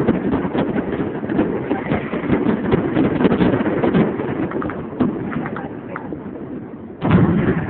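Fireworks popping and crackling in a rapid, dense string that thins out after about five seconds, then a sudden loud bang near the end.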